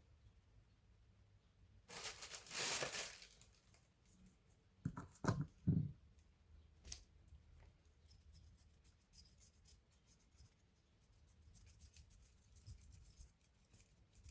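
Hands working on a laptop's parts: a rustling, tearing-like scrape lasting about a second, then three quick knocks, then faint scattered clicks.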